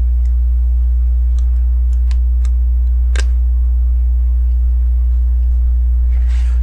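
Plastic LEGO pieces clicking as they are handled and fitted: a handful of sharp clicks, the loudest a little after three seconds in, and a short rustle near the end. A steady low hum runs underneath.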